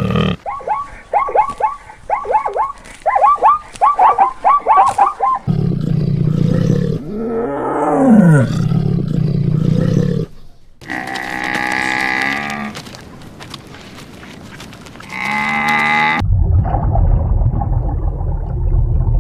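A run of different animal calls, one after another. First comes a quick series of short chirping calls. Then a single call rises and falls over a low hum. A long call with many pitched layers follows and cuts off, giving way to a low rumble.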